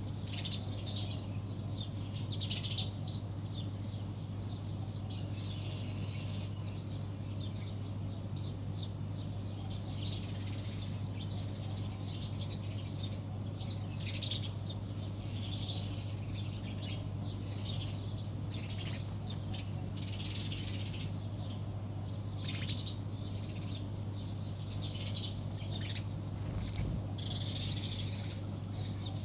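Small birds chirping and calling again and again, many short chirps overlapping, over a steady low hum.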